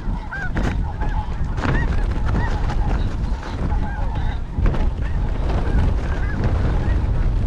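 Many snow geese calling, a chorus of short, overlapping honks that rise and fall, over heavy wind buffeting the microphone.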